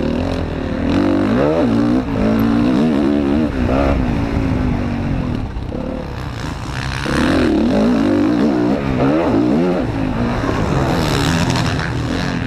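Motocross bike engine revving up and down over and over as the throttle is worked and the gears change, heard from an onboard GoPro.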